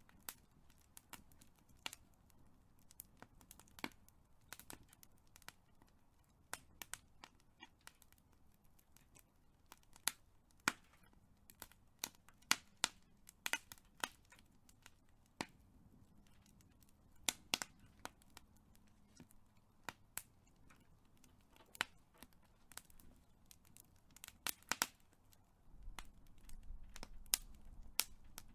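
Big fire crackling: sharp, irregular pops and snaps, a few louder than the rest, over a faint hiss. Near the end a low rumble comes in under the crackle.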